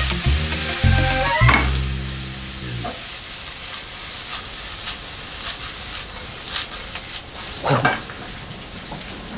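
Food sizzling as it fries in a pan on a gas stove, with a few light clicks of a utensil stirring.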